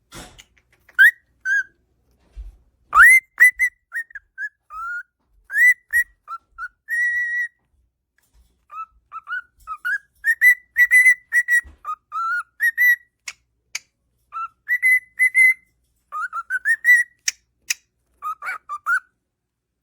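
Cockatiel whistling a tune as a run of short, clear notes, many sliding upward, with a pause about eight seconds in. A few sharp clicks fall among the later notes.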